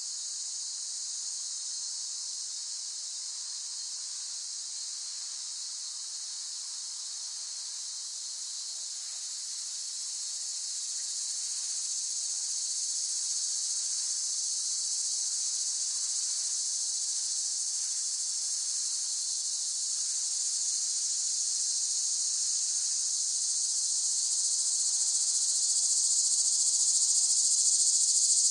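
Cicadas singing in a continuous, high-pitched, buzzing drone that grows gradually louder through the second half.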